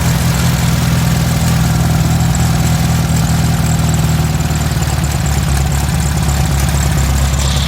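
Air-cooled VW Beetle flat-four engine running at idle, freshly fitted with a CB Performance Magnaspark II electronic distributor, coil and plug wires, and running pretty good.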